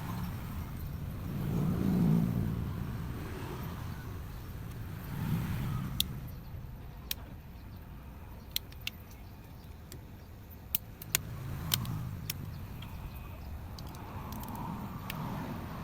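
Road vehicles passing in slow swells, the loudest about two seconds in, with about ten sharp, separate clicks from about six seconds on.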